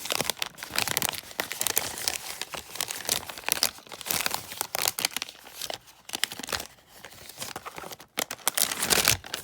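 Paper packaging crinkling and rustling as it is handled, probably the lock's instruction sheets and paper template being unfolded. The crackle thins out about two-thirds of the way through, then a louder rustle comes near the end.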